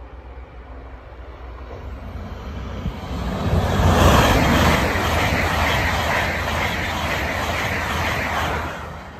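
LNER Class 801 Azuma electric express passing at speed: a rising rush as it approaches, then a steady loud rumble of wheels on rail and air as the carriages go by, which dies away quickly near the end.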